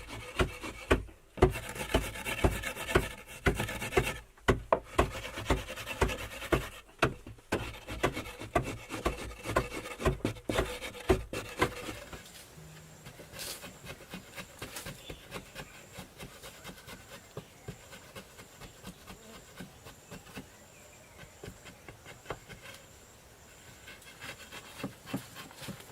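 Rhythmic scraping strokes on wood, a few a second, like a hand tool rubbing or rasping. They stop about halfway through, leaving only faint scattered ticks.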